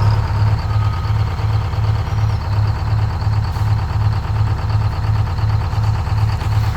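Ford 8000 dump truck's engine running steadily at low speed, with a low hum that pulses evenly about two to three times a second.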